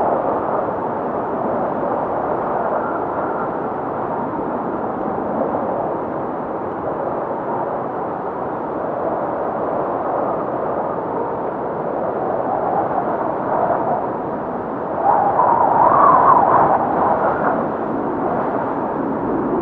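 Blizzard wind howling: a steady rush with wavering, moaning tones, swelling to a louder gust about fifteen seconds in.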